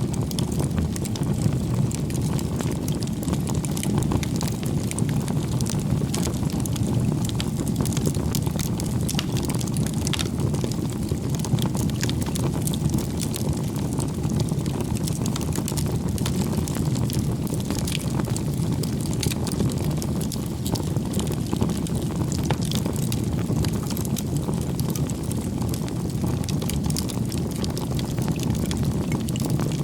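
Firewood bonfire burning: a steady low rush of flames with frequent small crackles and pops from the wood.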